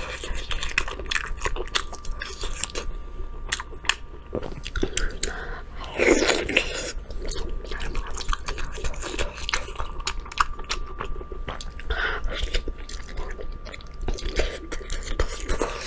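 Close-miked chewing and biting of beef tendon: a steady run of wet, sharp mouth clicks and smacks, with a louder burst about six seconds in.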